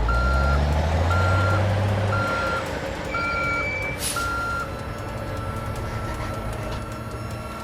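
Truck reversing alarm beeping about once a second over a low engine that revs up in the first two seconds. About four seconds in there is a short hiss, and the beeping turns into one steady tone.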